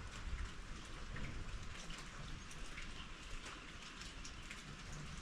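Rain falling, with many small scattered drop ticks over a low rumble.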